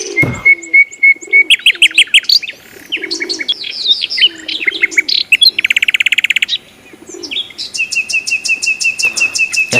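Mixed small songbirds chirping, whistling and trilling, with a fast rattling trill around the middle and a long run of quick repeated notes near the end; faint low cooing of a dove sits underneath.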